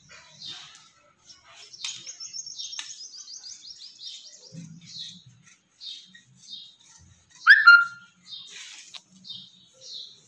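Small birds chirping, short high chirps repeated about every half second, with a rapid trill about two seconds in and one louder, sharper call falling in pitch about three quarters of the way through.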